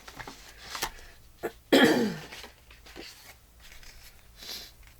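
A woman coughs once, sharply, about two seconds in, with her voice dropping in pitch as it fades; a few light clicks of paper being handled are around it.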